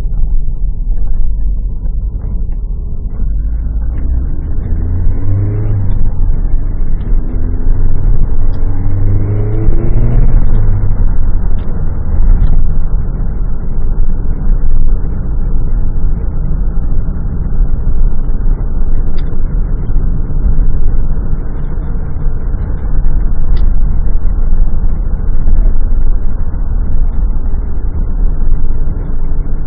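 Lotus Esprit engine heard from inside the cabin, pulling hard with its pitch rising twice, a gear change between the two pulls, then settling into a steady cruising drone with road noise.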